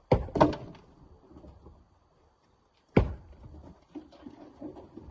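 Sharp knocks of rock being struck during rock breaking and loading: two hard hits in quick succession right at the start, then a single hit about three seconds in, with fainter knocks after.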